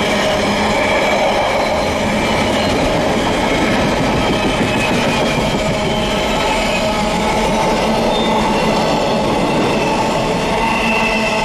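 Freight train of container flat wagons passing close by at speed: a steady, loud rumble and rattle of wagon wheels running on the rails.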